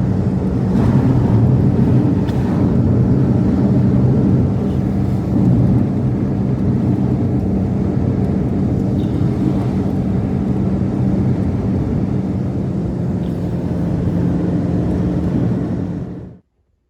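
An engine running steadily at an even pitch, loud, with no change in speed; it cuts off abruptly near the end.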